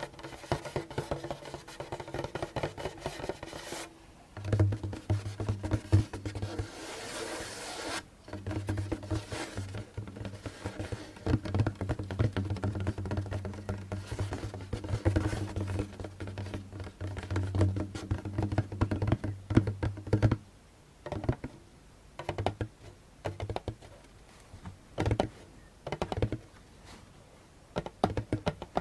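Fingers tapping and scratching on a djembe's skin: quick, dense drumming with the drum's low tone sounding through for most of it, then slower, separate taps in the last third.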